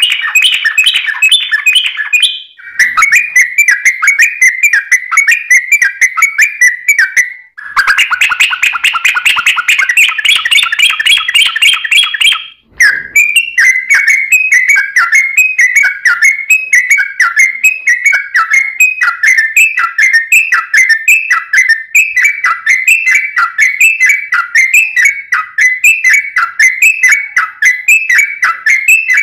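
Yellow-vented bulbul (trucuk) singing a fast, tightly packed run of short, repeated whistled notes with hardly a pause. The song breaks off briefly three times; the second stretch is denser and brighter.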